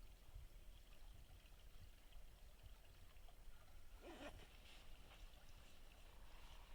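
Near silence with a faint low rumble, broken by one brief rustle about four seconds in.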